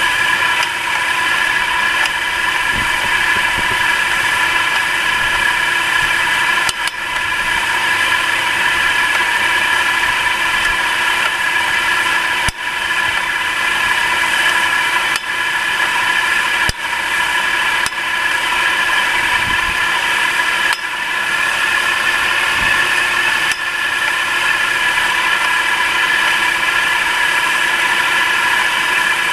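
Nissan March engine idling steadily under the hood with a constant high whine, broken by a few sharp knocks several seconds apart. These are the kind of knocks under the hood that the owner reports until the engine warms up.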